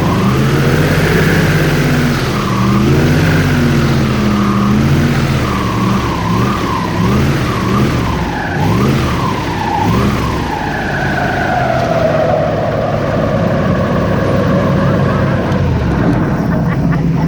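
Airboat engine and propeller running hard, the pitch swinging up and down again and again as the throttle is worked, then cutting off suddenly at the end.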